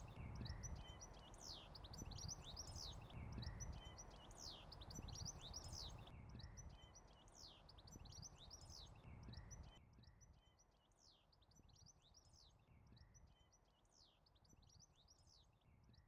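Faint outdoor birdsong: many quick, high sweeping chirps from small birds over a low background rumble, dropping quieter about ten seconds in.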